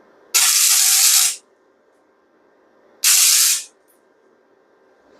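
Welder laying two short tack welds to fix bolts onto a steel bracket: two loud hissing, crackling bursts, the first about a second long, the second shorter, each starting and stopping suddenly.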